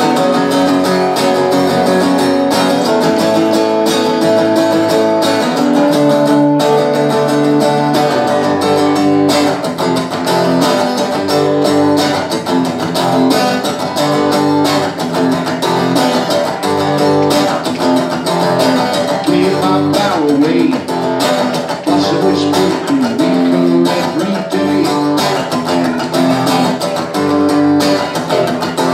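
Guitar-led music played live, with strummed guitar.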